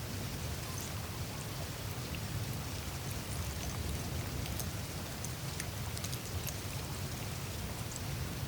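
Greenland ice sheet glacier surface melting: meltwater trickling and dripping through the ice, with many small scattered ticks and crackles over a steady low rumble.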